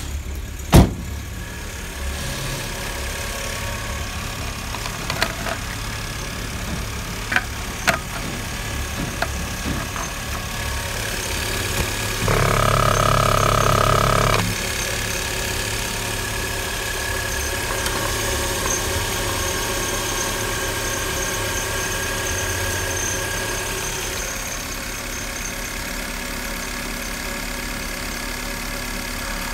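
VW Golf 3's 1.8-litre single-point-injection four-cylinder petrol engine (code ADZ) idling steadily. There is a sharp knock about a second in and a few lighter clicks. The engine sound grows louder for about two seconds around the middle of the clip, while the oil filler cap is off.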